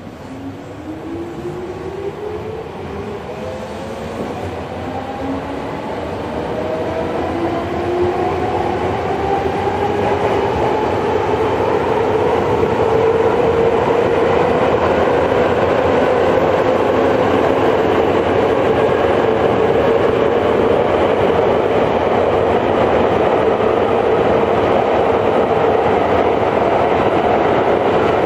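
Inside a Tokyo Metro 5000 series car, the traction motors and gears whine, rising in pitch over about twelve seconds as the train accelerates, then holding steady at running speed. Wheel and rail noise grows louder with the speed.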